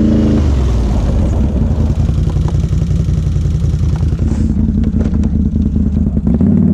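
Can-Am ATV engine working under load while pushing snow with a plow blade: the revs drop in the first half second, hold lower and steady, then climb again near the end.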